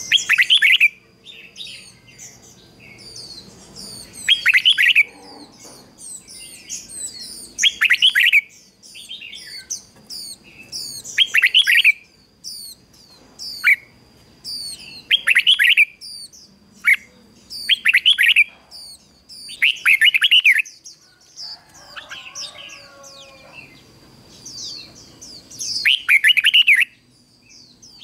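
Red-whiskered bulbul singing: a loud, short warbled phrase repeated about every three to four seconds, with quick high chirps in between. It is the song of a decoy bird used to call in wild bulbuls.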